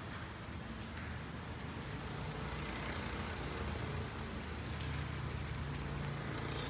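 Hyundai Elantra's 1.6-litre petrol four-cylinder engine idling with the hood open: a steady low hum.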